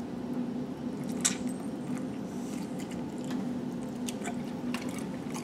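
A man biting into and chewing a piece of sauced barbecued chicken: soft wet chewing with scattered small clicks, over a low steady hum. It is a bite test of whether the skin bites through cleanly, and it doesn't quite.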